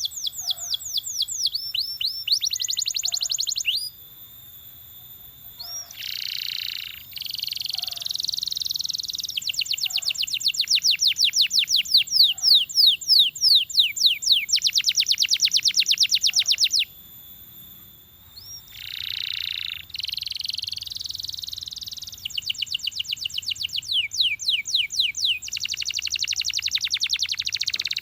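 Belgian canary singing in long phrases of fast trills, each made of rapidly repeated downward-sweeping high notes, with a few harsher, buzzier phrases and two short pauses, about 4 s and 17 s in.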